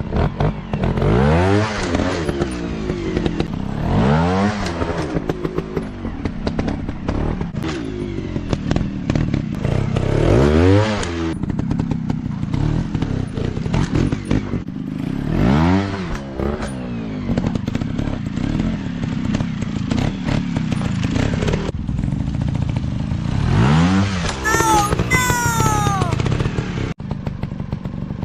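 Dirt bike engines revving up and dropping back, again and again, as the bikes are ridden. About 25 seconds in there is a short high whine that slides downward.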